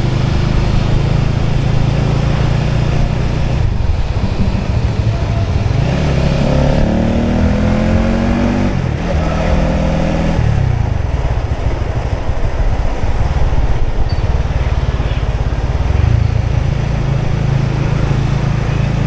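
Motorbike engine running steadily while riding, with the engine note rising and falling for a few seconds near the middle.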